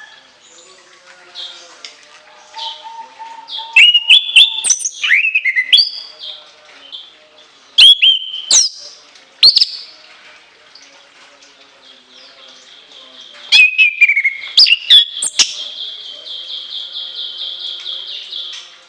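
Chestnut-capped thrush (anis kembang) singing loud, sharp, high whistled notes and sweeping phrases in bursts. It ends in a steady rapid trill of about three seconds near the end.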